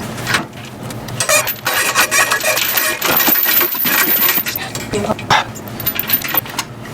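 Metal clinking, rattling and scraping as an engine is worked loose and shifted out of the engine bay, with a dense run of jingling clinks through the middle.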